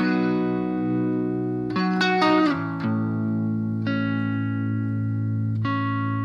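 Electric guitar playing a slow sequence of chords, each let ring and changing about every one to two seconds, through a Fender Deluxe-style amp model on a BOSS GT-1000 into a Two Notes cab simulation, with the gain pulled back a bit.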